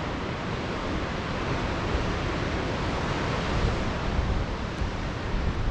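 Steady wind rushing and buffeting over the microphone, a constant noisy roar with a gusty low rumble.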